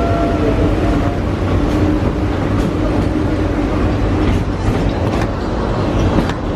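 Wildlife Express train running, a steady rumble of the moving carriages with a few sharp clicks and rattles in the second half.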